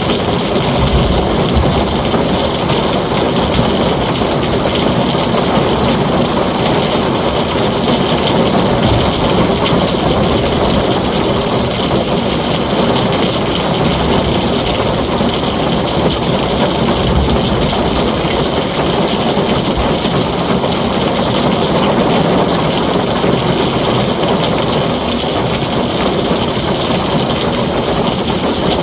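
Heavy rain pouring onto a tin roof, a steady dense hiss and patter with no breaks.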